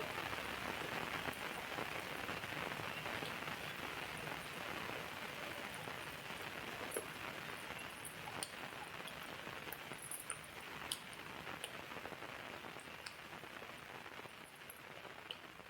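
Steady rain falling, with scattered sharper drip-like clicks, slowly getting quieter toward the end.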